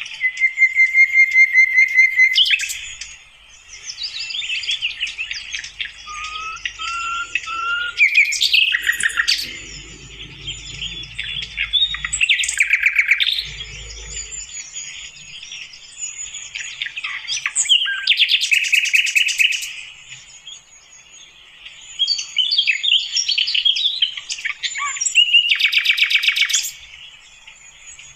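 Sikatan londo flycatcher singing: phrases of high chirps, whistles and fast trills, repeated with short pauses between.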